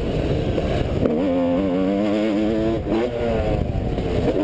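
2010 Yamaha YZ250 two-stroke motocross engine running under throttle, its pitch wavering and holding, dropping off briefly near three seconds and then climbing again, over heavy low wind rumble.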